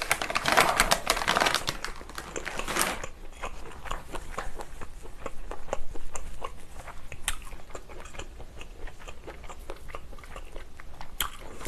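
A person chewing a mouthful of food close to the microphone, wet and crackly for the first three seconds, then fading to soft scattered mouth clicks.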